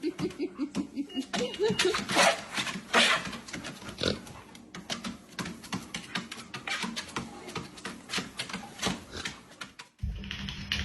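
A dog's wavering, whining vocal sounds, followed by a long run of sharp clicks and knocks. Music starts near the end.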